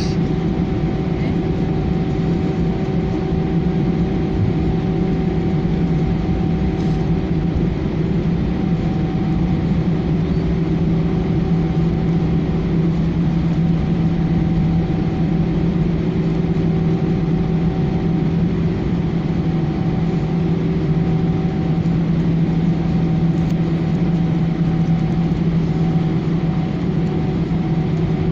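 Steady cabin noise of an Airbus A318 taxiing after landing, with its engines at idle. A constant low hum is joined by a fainter, higher steady tone.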